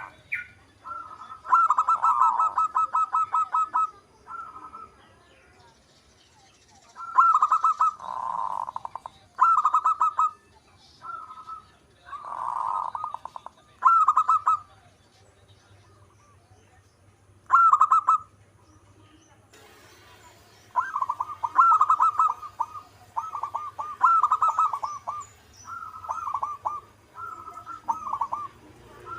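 Zebra dove (perkutut) cooing: phrases of rapid, stuttering coos that come in bouts with pauses of a few seconds between them, and a longer run of phrases in the last third.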